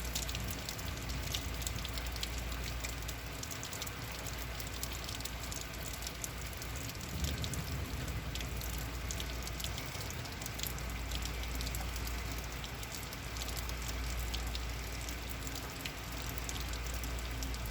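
Heavy rain coming down steadily, with many fine drops pattering on surfaces close to the microphone.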